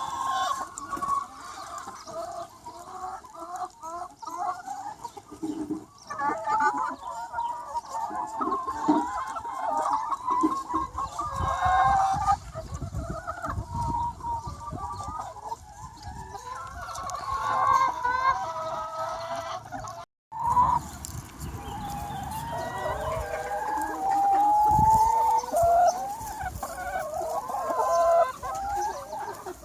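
A large free-range flock of about two hundred chickens clucking and calling over one another without a break, with a short, sudden gap in the sound about twenty seconds in.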